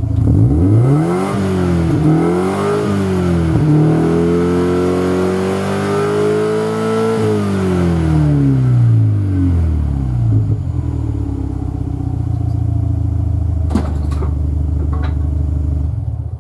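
Subaru WRX STI's turbocharged flat-four exhaust through an STI Performance Muffler: revved in a few quick blips, held at higher revs, then falling back to a steady idle. A few sharp clicks near the end.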